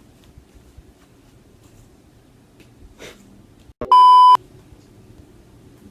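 A censor bleep: a single loud, steady electronic beep tone lasting about half a second, about four seconds in. It starts and stops abruptly, with the sound dropping out just before it. Otherwise there is only faint background room noise.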